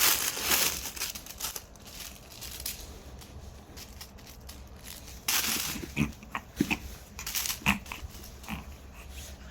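Plastic bag crinkling and rustling as a poodle plays with it, with more rustling from about five seconds in and four short dog vocal sounds among it.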